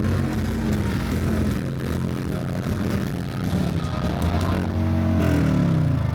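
Motorcycle engine running and revving, with a rise and fall in pitch about four to five seconds in.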